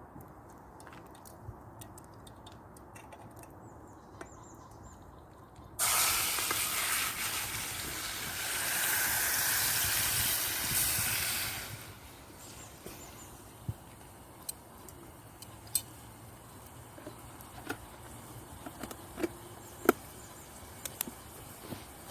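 Chicken going into a pan of hot oil: a loud hissing sizzle starts suddenly about six seconds in and lasts about six seconds, then dies down to a low background with scattered sharp pops.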